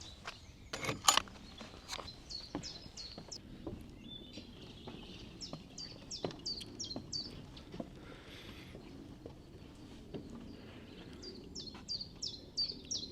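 A small songbird singing runs of short, high, falling notes, several a second, in bursts of a few seconds with pauses between. About a second in there are a few loud close knocks, with fainter clicks throughout.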